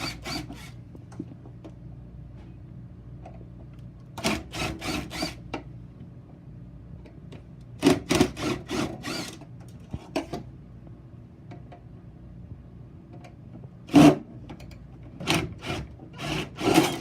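Screws being backed out of a Blizzard machine's metal back cover with a hand tool: short bursts of quick clicking and scraping, five or six of them, with a sharp knock about 14 seconds in.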